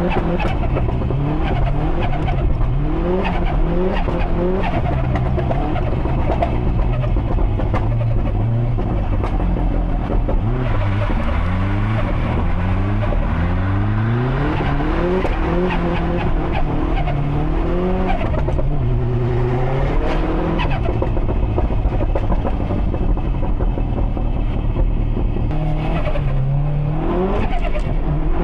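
Subaru Impreza STI's built EJ257 turbocharged flat-four with a big turbo, driven hard: the engine note climbs again and again and drops back at each gear change or lift, with sharp cracks now and then.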